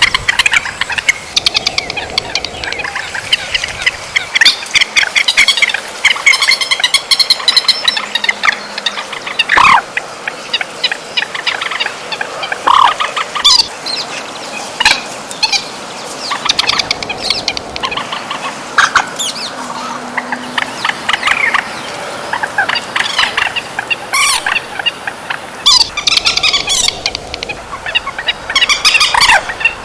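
Trích ré bird calls played as a trapping lure: loud, shrill calls repeated rapidly and densely, with some short down-sliding notes mixed in.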